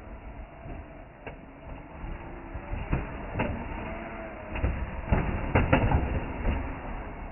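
Irregular plastic knocks and a low rumble as a Lego Technic model car rolls and bumps over Lego Duplo bricks, with a cluster of louder knocks about five to six seconds in.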